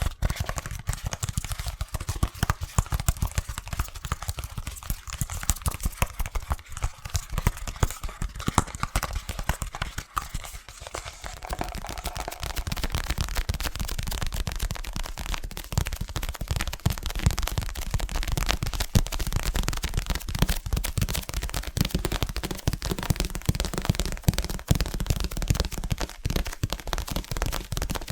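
Very fast, aggressive fingertip tapping on a hard object: a dense stream of sharp taps, many to the second, with a brief lull about ten seconds in before it picks up again.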